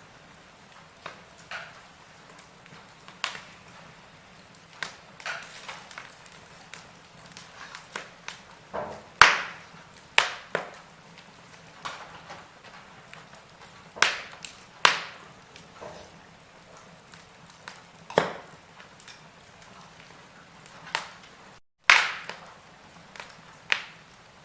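Wood fire in a fireplace crackling: irregular sharp pops and snaps over a soft steady hiss, a handful of them much louder than the rest. The sound cuts out for a split second near the end.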